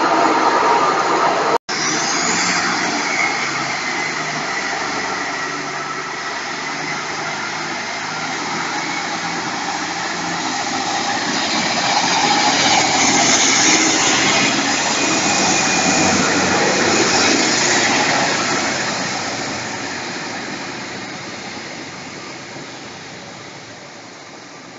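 Train noise: a steady rushing that cuts out for an instant near the start, swells about halfway through and then fades away, as a train passing or pulling away would.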